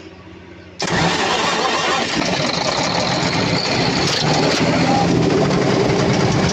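Perkins 2206-series diesel engine cranking over and starting about a second in, then running loud and steady. The engine is leaking compression out through the intake, which the mechanics put down to a broken valve.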